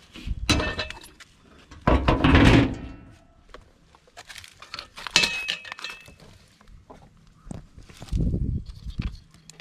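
Irregular metallic knocks, clanks and clinks of tools and equipment parts being handled, with the loudest clatter about two seconds in.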